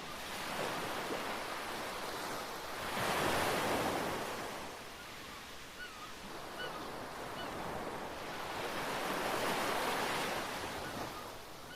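Ocean waves washing onto a beach, swelling about three seconds in and again near ten seconds. A few faint high chirps come in between the two swells.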